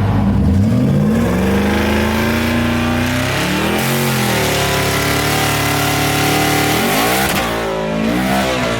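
A car engine at full throttle, accelerating hard through the gears: its pitch climbs steadily, then drops and climbs again at upshifts, about four and seven seconds in.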